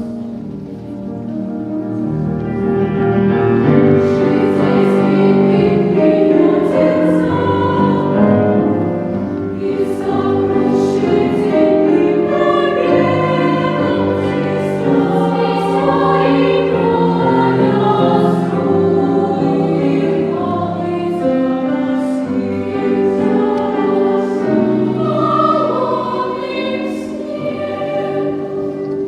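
Children's choir singing in academic style, several voices blended on held, changing notes. It grows louder over the first few seconds.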